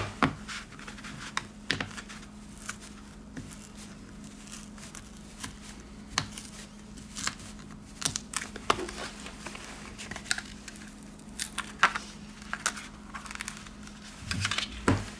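Irregular small clicks, scrapes and crinkling of hand tools working on a smartphone's plastic and metal parts during disassembly, over a faint steady hum.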